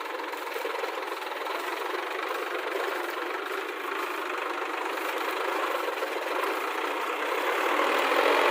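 A diesel engine of heavy farm or earth-moving machinery running steadily, getting louder toward the end.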